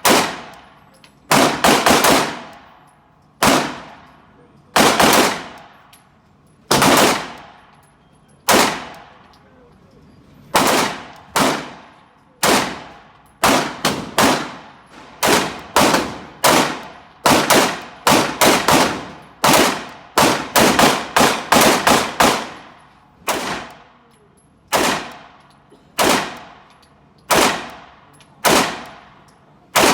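Pistol shots fired in a long string of several dozen, each a sharp crack with a short ringing tail. They come a second or two apart at first, then faster, often in quick pairs.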